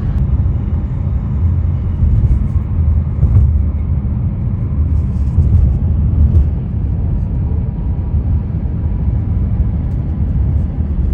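Steady low rumble of a moving vehicle, with faint light ticks and rattles over it.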